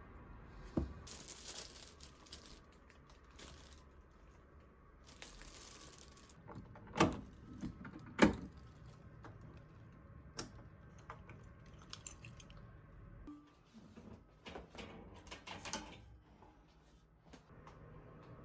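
Household handling sounds: rustling and crinkling like packaging or paper being handled, with a few sharp knocks, the loudest two about seven and eight seconds in, and scattered small clicks afterwards.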